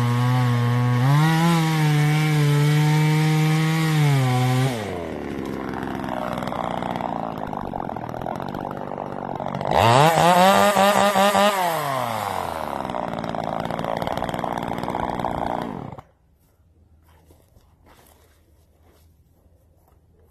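TimberPro CS2500 25cc top-handle two-stroke chainsaw at high revs, bucking wood. The engine pitch drops and the sound turns rough as the chain works through the cut, with a brief sharp rev-up about ten seconds in. The engine then cuts off suddenly about sixteen seconds in.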